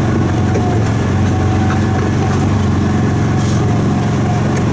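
Small gasoline engine of an Autopia ride car running steadily as it drives along the track, heard from the driver's seat.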